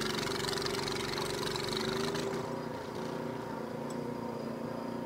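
An engine running steadily at idle, with a broad hiss over it that drops away about two seconds in.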